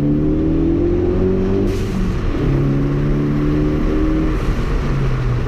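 Ford Focus ST's turbocharged 2.0-litre four-cylinder through a COBB cat-back exhaust, accelerating up through the gears. The engine note rises, breaks at a gear change about two seconds in, rises again, and changes at another shift near the end.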